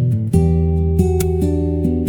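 Gentle acoustic guitar music, notes plucked and strummed in a slow, calm progression.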